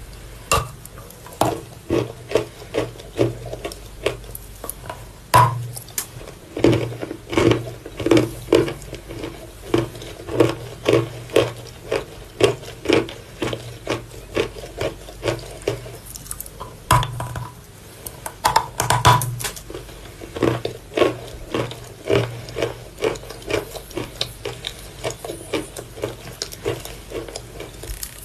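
Mouth chewing wet Vasilpole chalk: damp crunches at a steady rhythm of about two chews a second, with a few sharper bites in between.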